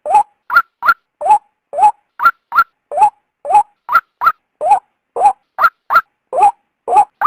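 White-breasted waterhen calling in a fast, steady series of short, harsh notes, about two to three a second: one lower note followed by a pair of higher ones, over and over. This is the female's call, used to lure males.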